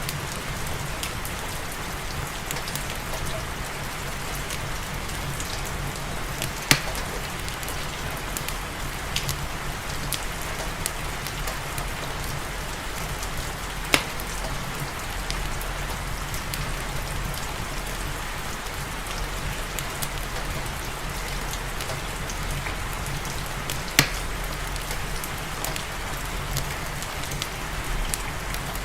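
Steady rain with a low rumble underneath, broken now and then by sharp crackles and pops of a wood fire in a fireplace; three pops stand out louder.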